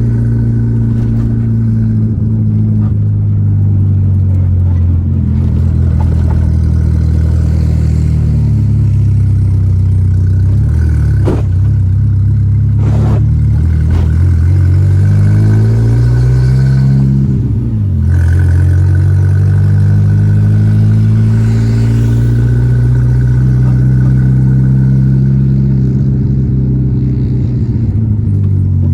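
Volkswagen Gol G4 Rallye's four-cylinder engine running under way, its pitch sinking, then climbing as the car accelerates, with a sudden drop about 18 seconds in as at a gear change. A few sharp clicks sound between about 11 and 14 seconds in.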